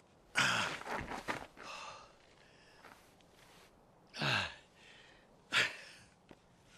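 A person sighing and gasping: several heavy, breathy sighs, the strongest about half a second in, about four seconds in and near the end, each falling in pitch.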